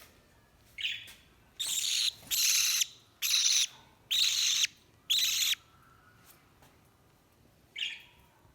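Young parrot giving a run of harsh, raspy screeches, five loud ones of about half a second each in quick succession, with a fainter short call before them and another near the end.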